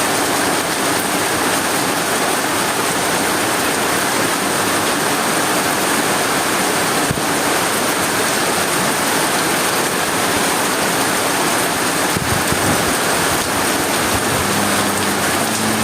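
Heavy rain driven by strong wind, a loud steady hiss of falling and splashing water. A low steady hum comes in near the end.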